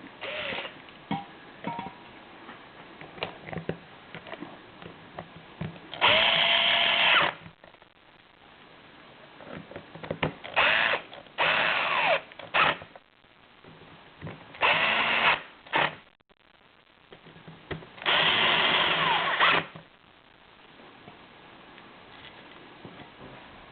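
A power drill/driver runs in several short bursts of up to about a second and a half each, its speed changing within each burst. Light clicks and handling of small parts come between the bursts.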